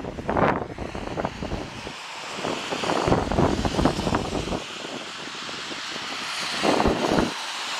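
Gusts of storm wind buffeting the microphone in irregular bursts, with a steady rushing noise building in the background from about three seconds in.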